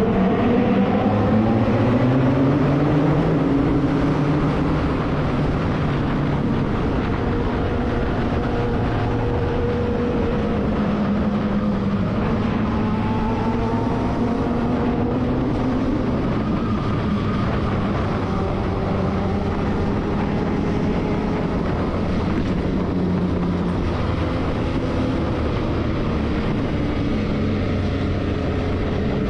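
Motorcycle engine running, its pitch rising and falling with the throttle.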